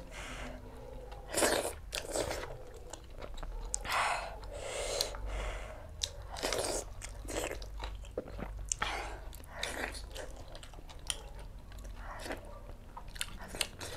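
A person chewing and biting food close to the microphone, with irregular crunches.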